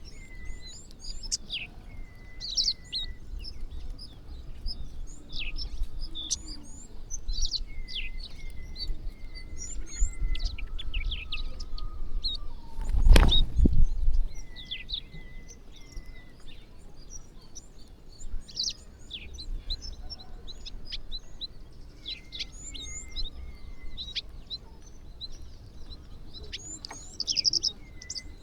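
Many small birds chirping continuously in quick, overlapping calls at a feeding spot, some in short runs of even, repeated notes. A single loud, dull thump or bump on the microphone about halfway through.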